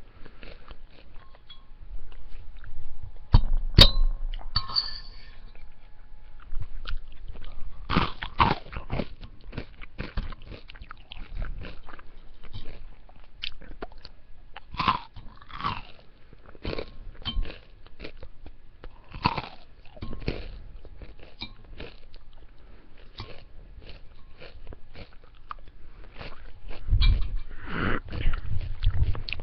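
Close-miked chewing and crunching of food, a string of short, irregular wet mouth sounds and crunches, with a sharp crunch about four seconds in and a louder run near the end.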